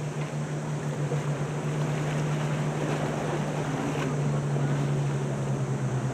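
A steady low engine drone, growing louder right at the start and then holding, over the noise of surf and wind.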